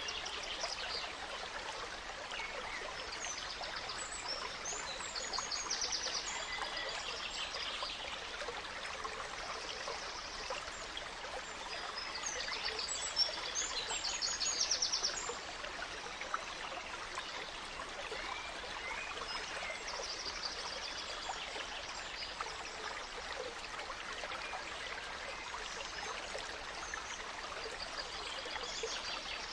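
A small stream trickling and babbling steadily, with forest birds calling and singing over it; a few bursts of quick trills stand out, the loudest about 12 to 15 seconds in.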